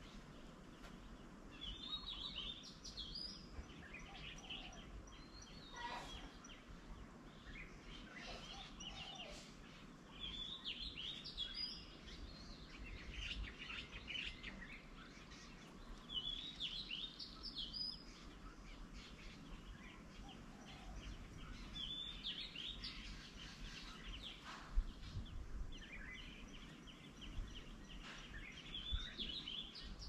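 A songbird repeating a short, quick phrase about every five to six seconds, with softer calls between, faint over a low background hum.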